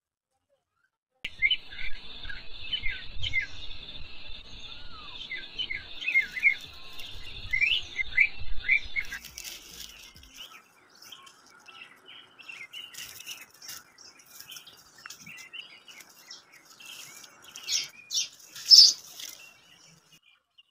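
Small birds chirping in quick, repeated short calls over a steady high hiss, starting about a second in; after about nine seconds it turns fainter, with scattered clicks and a few sharp chirps near the end.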